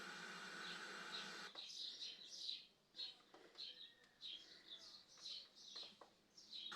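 Faint bird chirping: a string of short, high, falling chirps, about two a second. Before the chirps begins a steady faint hum and hiss, which cuts off abruptly about a second and a half in.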